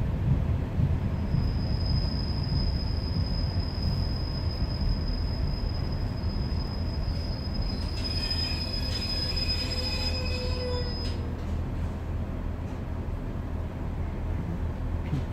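Class 142 Pacer diesel railbus heard from inside the saloon while braking: a steady low rumble from the underfloor diesel and running gear, with one long high-pitched squeal from about a second in that stops about eleven seconds in. Several further squealing tones join it near the end of the braking, as the train draws to a halt.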